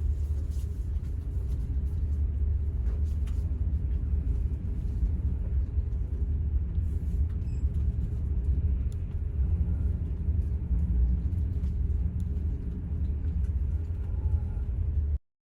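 Steady low rumble of the Queen Beatle high-speed ferry under way in high waves, heard from inside the passenger cabin; it cuts off abruptly near the end.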